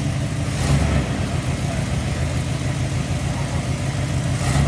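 Off-road vehicle's engine running steadily at low revs as it crawls down a rocky ledge, with a brief swell of throttle about a second in.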